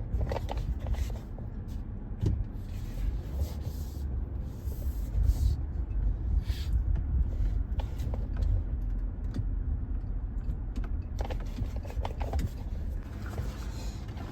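Vehicle creeping slowly over rough ground, heard from inside the cab: a steady low engine and road rumble with scattered rattles and knocks.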